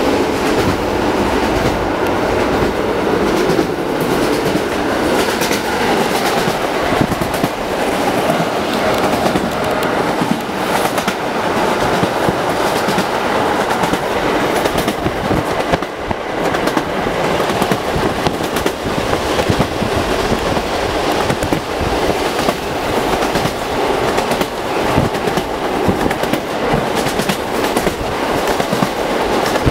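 Passenger train running at speed, heard from inside an older compartment carriage: a steady rumble and rattle of the wheels on the rails, with frequent clicks and knocks.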